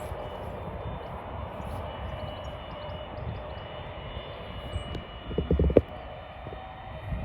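Jet airliner engines running steadily at a distance, with a brief loud low burst about five and a half seconds in.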